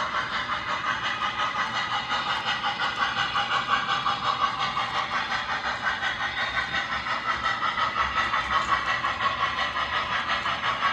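A long train passing without a break, its running noise pulsing in a steady rhythm of about three beats a second.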